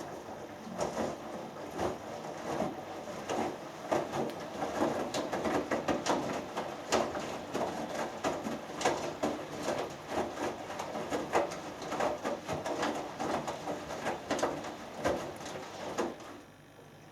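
Hoover Dynamic Next front-loading washing machine in its first rinse: the drum turns for about sixteen seconds, with water sloshing and wet laundry flopping and thudding irregularly, then stops.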